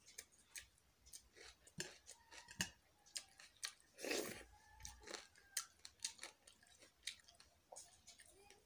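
Close-up eating sounds: a person eating rice by hand, with many short, sharp mouth clicks and smacks while chewing, and one longer, louder sound about four seconds in as a mouthful is taken.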